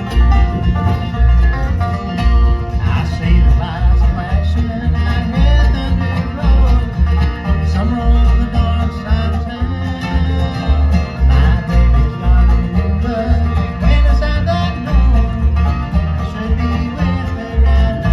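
A bluegrass band playing live: banjo rolls and guitar over a steady low bass note on each beat, about two a second.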